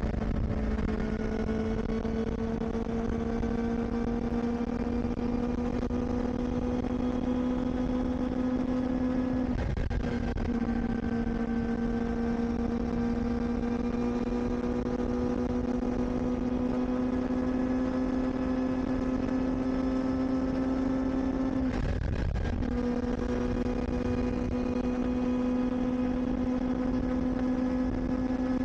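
Kawasaki Ninja ZX-4RR's inline-four engine pulling steadily under way, its pitch climbing slowly, with low wind and road noise. It cuts out briefly and comes back slightly lower about ten seconds in and again about twenty-two seconds in, as with upshifts. The revs stay moderate because the new engine is still being run in.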